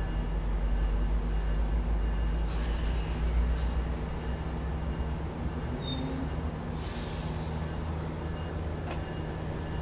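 A GO Transit bilevel commuter train standing at the platform, its diesel running with a steady low rumble and hum. Compressed air hisses from the train twice, about two and a half seconds in and again about seven seconds in.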